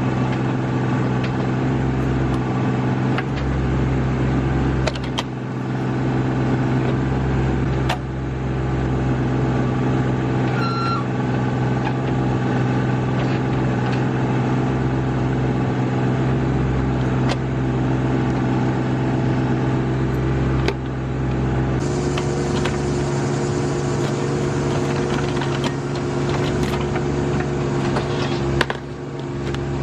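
RK25 subcompact tractor's engine running steadily while its backhoe digs, with a few short sharp knocks.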